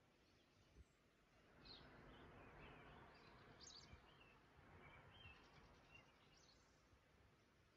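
Faint birds chirping now and then, short scattered calls, over a soft hiss that swells for a few seconds in the middle.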